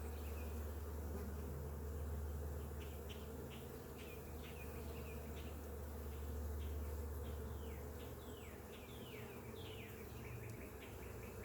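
Honeybee colony buzzing in an open hive, a steady low hum that the beekeeper calls a roar. A run of short, high, falling chirps sounds through the middle.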